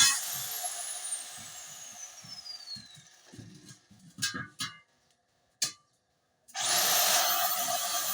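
Angle grinder switched off, its disc whine falling as it spins down over about three seconds, followed by a few knocks. About six and a half seconds in the grinder starts again, its whine rising quickly, and it runs on loudly, cutting into the steel gas cylinder.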